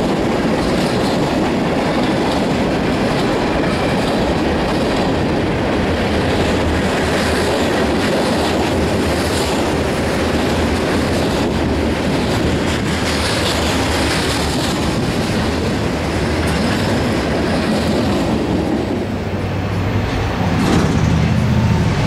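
Freight cars of a CSX local rolling steadily past: tank car and loaded open-top marble hoppers. The wheels make a continuous rumble on the rails with repeated clicks.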